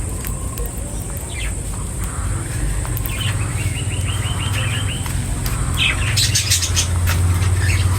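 Small birds chirping, with a rapid trill in the middle lasting about two seconds and a burst of chirps near the end, over a steady low rumble.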